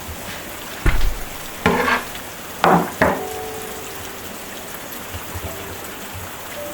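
A few knocks and scrapes of a utensil against a cooking pot, four in the first half, the last leaving a short metallic ring, over a steady hiss.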